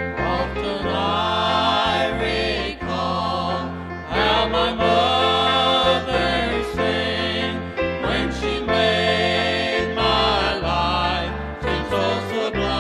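Gospel song: a vocal group singing in harmony over piano and a bass line that moves in steps.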